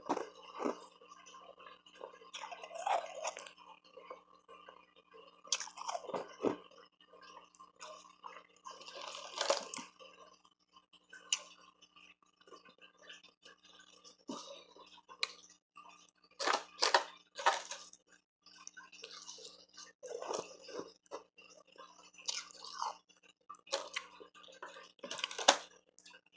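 Close-miked chewing and crunching of hard refrozen ice, in irregular bites with pauses between, a few crisp loud crunches coming in quick succession past the middle.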